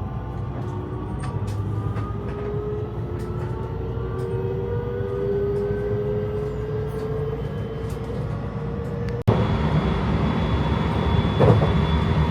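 Electric train's traction motors whining in several tones that rise slowly in pitch as the train gathers speed, over the rumble of the carriage. About nine seconds in the sound breaks off abruptly and comes back as louder running noise.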